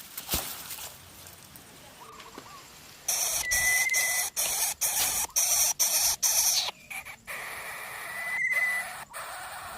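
Greater coucal nestlings hissing harshly in the nest, loudest for a few seconds in the middle with many brief breaks, then softer. A short high trill sounds twice.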